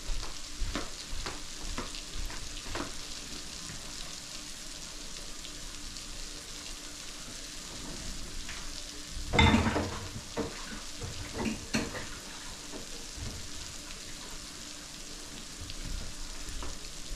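Squash strips coated in flour and cornmeal frying in a pot of hot oil, a steady sizzle throughout. A few short knocks and clatters sound over it, the loudest about nine and a half seconds in.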